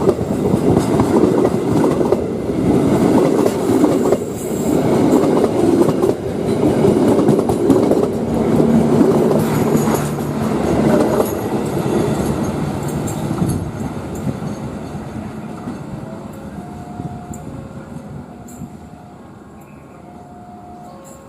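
A train running past on the station tracks, its wheels clattering over the rail joints. It is loud for about twelve seconds, then fades away as it moves off. Short ringing tones at a few pitches come in faintly near the end.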